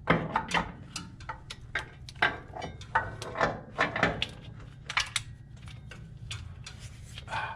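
Hand tools clicking and clinking against metal in short, irregular strokes, like a wrench being worked on the starter wiring connections.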